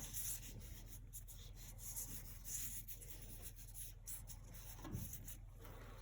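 Paintbrush strokes of acrylic paint: soft scratchy rubbing that comes in separate strokes of under a second to about a second each.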